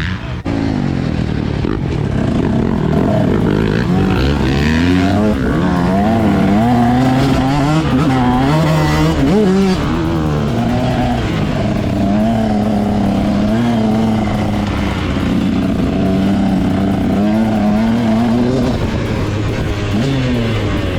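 Motocross dirt bike engine running hard, its pitch rising and falling over and over as the throttle is worked on and off around the track.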